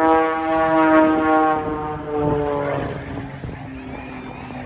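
Propeller airplane passing overhead: a loud droning tone with many overtones that sinks slightly in pitch and fades over about three seconds.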